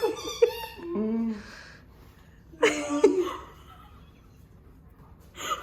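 People laughing in a few short bouts, with quieter stretches between them.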